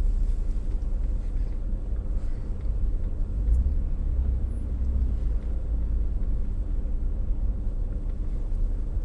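Steady low engine and road rumble of a Jeep driving slowly on a snowy, icy road, heard from inside the cabin. It swells slightly about four seconds in.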